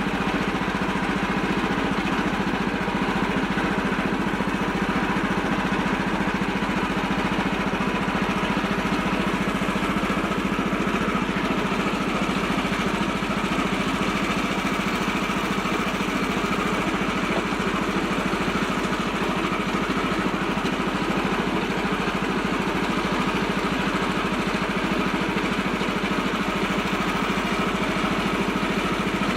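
Tractor engine running steadily at an even speed, with a constant low drone.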